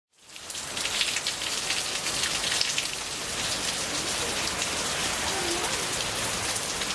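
Steady rain falling and pattering on a surface, a dense hiss full of fine drop ticks that fades in over the first moment.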